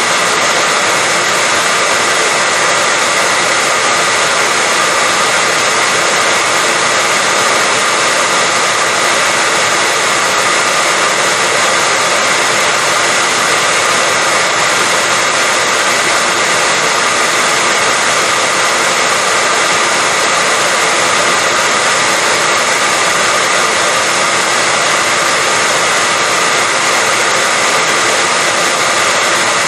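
Hair dryer running continuously: a loud, steady whooshing with a faint constant whine, unchanging throughout.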